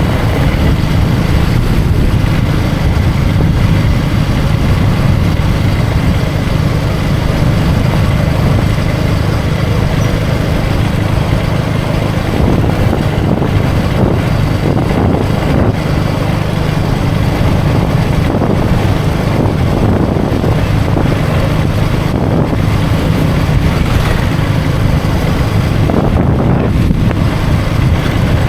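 KTM Duke 250's single-cylinder engine running steadily at cruising speed, with wind noise on the microphone over it.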